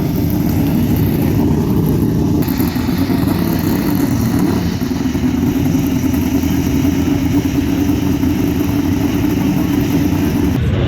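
Muscle-car engines running, a loud, steady, dense low drone; about two and a half seconds in, a higher hiss above it grows stronger.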